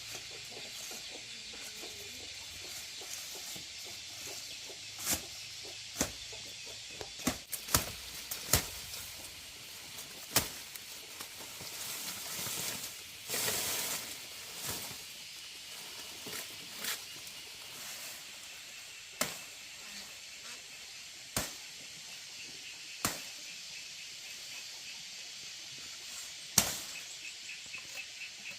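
Sharp knocks at irregular intervals, a dozen or so, over a steady high hiss, with a brief louder rush about halfway through and a fast high pulsing call near the end.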